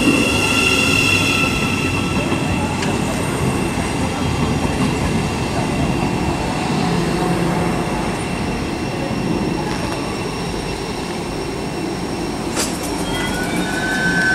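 Thameslink Class 700 electric train at the platform: a high brake squeal over the first second or two as it comes to a stand, then the steady running noise of the standing train. Near the end come a few sharp clicks and a short high tone.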